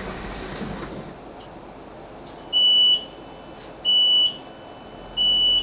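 Door warning beeper of a Class 458 electric multiple unit sounding three short, steady, high-pitched beeps about 1.3 seconds apart as the doors are released on arrival at a station, over a low train rumble that fades as the train comes to a stand.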